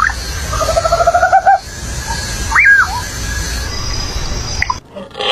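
Bird calls over a steady low rumble: a trilled call for about a second, then a single call that rises and falls in pitch. Everything cuts off abruptly near the end.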